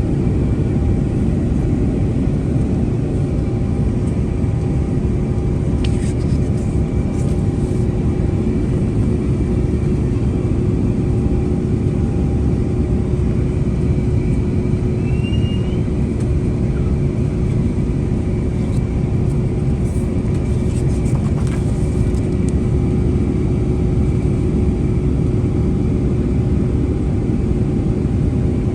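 Steady rumble of jet engines and rushing air inside the cabin of an Airbus A350-900 airliner, with a steady hum over it.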